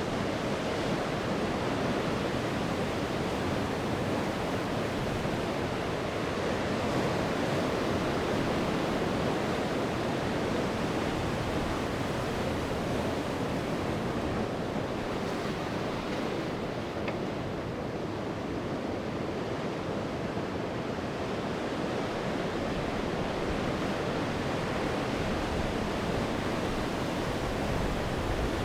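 Sea waves breaking and washing on the shore in a steady, continuous rush, with some wind.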